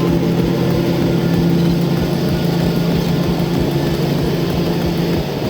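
Heavy truck engine running at a steady, constant speed, with a low drone that drops to a lower pitch about five seconds in.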